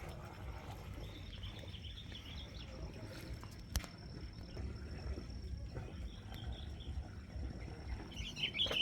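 Small birds twittering in short chirping phrases, once about a second in, again around six seconds, and loudest near the end, over a low rumbling background. One sharp click near four seconds.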